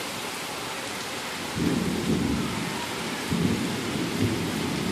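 Heavy rain falling steadily in a strong breeze. About a second and a half in, a low rumble starts up over the rain and comes and goes in gusts.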